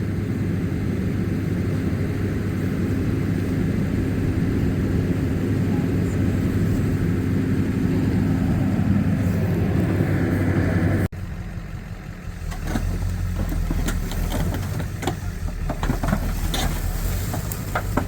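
A motor vehicle engine running steadily, its pitch sinking a little near the middle. About eleven seconds in the sound cuts off abruptly to a lower, quieter engine rumble with scattered clicks and knocks.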